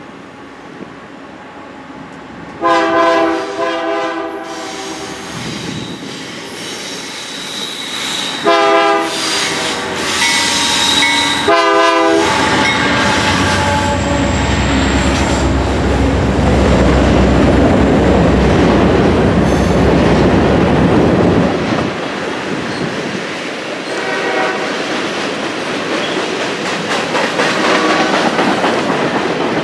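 Union Pacific diesel locomotive's horn sounding two long blasts and a short one as it approaches. The engine then passes in a loud low rumble, followed by boxcars rolling by with wheel clatter and faint wheel squeal.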